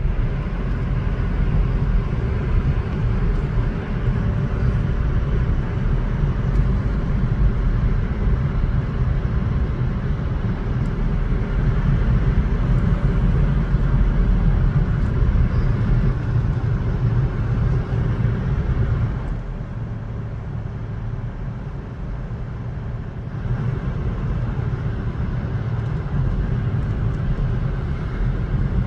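Road vehicles, a car and a van, driving slowly with steady engine and tyre noise and a heavy low rumble. The noise drops for a few seconds about two-thirds of the way through, then builds again.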